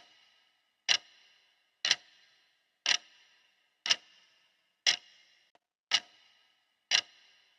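Clock ticking steadily, one sharp tick a second with a short ringing tail after each.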